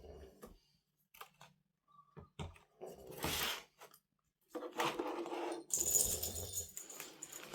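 Small hard items clinking and rattling against one another, with scattered clicks and a longer stretch of rattling and rustling in the second half.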